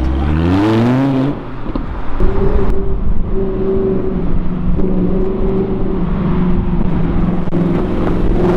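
Audi R8 V10 engine revving up as the car pulls away, its pitch rising over about a second. Then another Audi R8's engine running at steady low revs as it drives slowly past in traffic.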